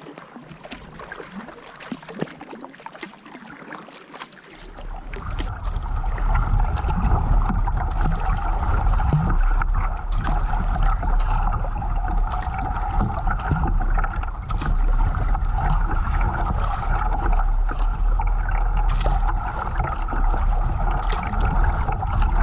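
Water splashing and wind rumbling on the microphone while out in a kayak, with scattered small splash ticks. It turns much louder and heavier about four and a half seconds in.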